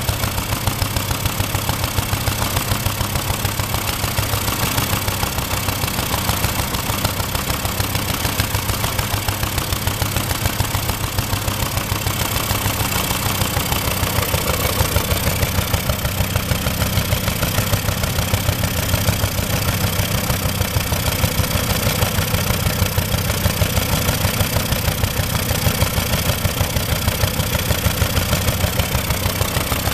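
Lister Petter engine running steadily at idle, driving a compressor pump, with an even beat of firing strokes.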